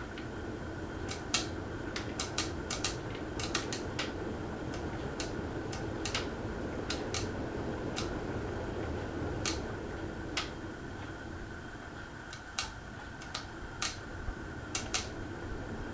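A 2001 Casablanca Panama ceiling fan running after being switched to reverse, with a steady motor hum and a constant whine. Sharp, irregular clicks come through it, one to three a second.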